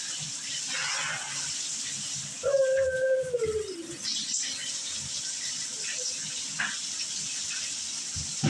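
Shower water running with a steady hiss, and about two and a half seconds in, one drawn-out wail that holds its pitch and then slides down, lasting over a second.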